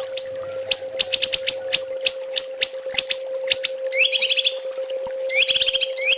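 Small songbird giving a 'tembakan' call: sharp, high notes that each drop in pitch, fired in quick volleys. Two fast buzzy trills follow, about four seconds in and near the end. A steady low hum runs underneath.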